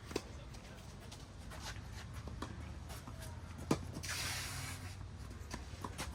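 Tennis rally: sharp racket-on-ball hits, the loudest just after the start and again in the middle, with lighter knocks of ball bounces and footsteps between them, and a brief hiss a little after the middle.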